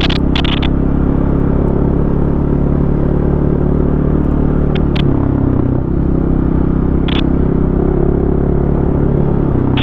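Single-cylinder four-stroke enduro dirt bike engine running under way on a trail, its pitch shifting about five seconds in and again near the end as the throttle changes. A few short clicks and knocks are heard along the way.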